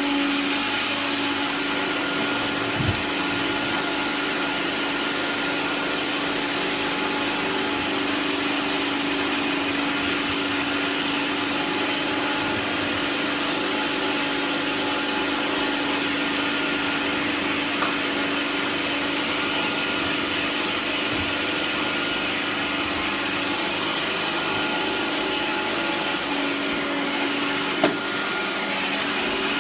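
Hoover Turbopower 2 1000 upright vacuum cleaner running steadily with a constant motor hum while sucking up dog hair through its hose. A few short knocks, the sharpest near the end, come from the hose or tool bumping.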